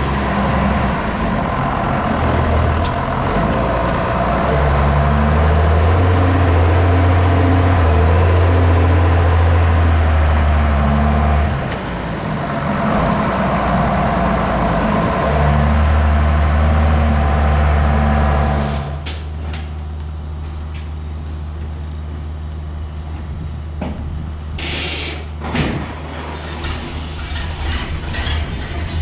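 A heavy vehicle engine running, its low drone shifting in steps. About two-thirds of the way through it drops to a quieter steady idle, with a few sharp knocks or clicks near the end.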